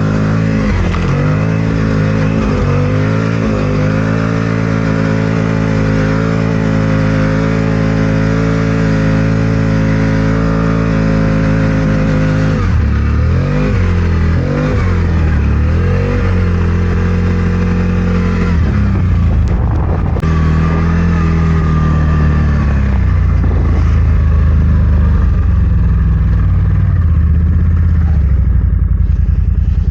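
CFMOTO 1000 ATV's V-twin engine running under load through deep snow, holding a steady speed for about twelve seconds. Then the revs drop, rise and fall several times, and the engine settles into a lower, steady run near the end.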